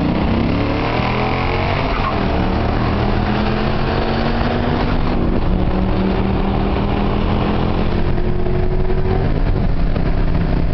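2010 Dodge Challenger R/T's 5.7-litre Hemi V8, with its resonator deleted, pulling hard under full throttle as heard from inside the cabin. The engine's pitch climbs steadily, drops at a gear change about five seconds in, climbs again, and breaks once more near the end, over wind and road noise.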